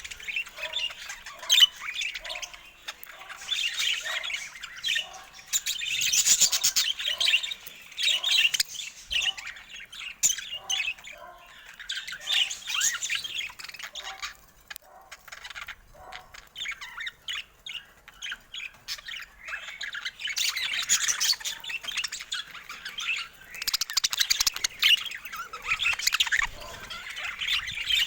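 Budgerigars chattering and squawking, a busy warble of chirps that swells and fades in waves. Through the first half a lower, short note repeats about twice a second under the chatter.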